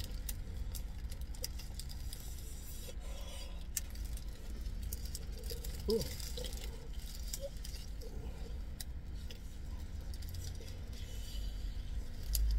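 Close-up eating sounds of a tortilla wrap being bitten and chewed: small wet mouth clicks and soft squishing, over a steady low hum. About six seconds in, a short hum drops in pitch.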